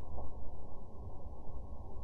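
Firework volcano fountains burning, slowed to half speed: a steady, low, dull rushing.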